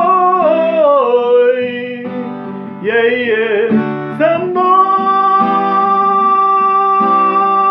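A solo voice sings a long drawn-out "so mnoy" over strummed acoustic guitar. The voice slides down, wavers, and from about halfway settles on one long held note.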